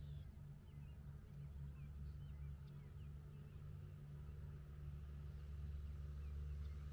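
Faint outdoor birdsong: short scattered bird chirps over a steady low rumble.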